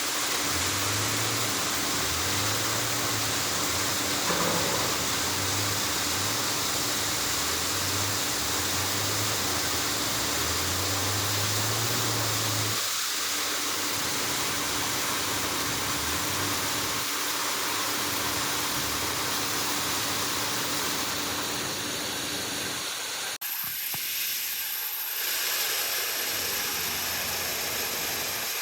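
Heavy industrial machinery running steadily: a loud, even hiss with a constant hum. A sharp click about 23 s in, after which the sound changes.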